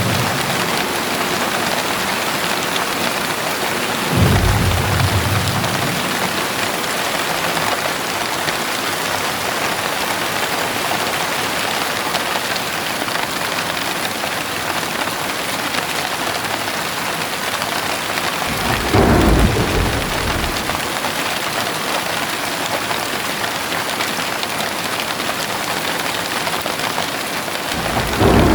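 Heavy rain falling steadily, with short low rumbles of thunder about four seconds in, again around nineteen seconds in, and once more at the very end.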